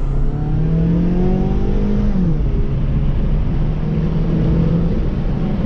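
Car engine accelerating, its pitch rising for about two seconds and then dropping at a gear change, after which it runs on steadily over a constant low road drone.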